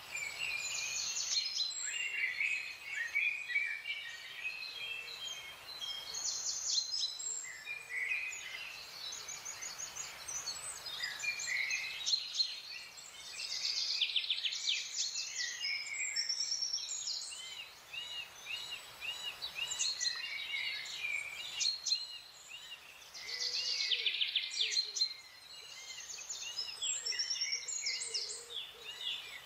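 Several wild birds singing and calling at once, with overlapping chirps, trills and quick runs of notes, including a string of short, evenly repeated arched notes about halfway through. A faint steady hiss lies underneath.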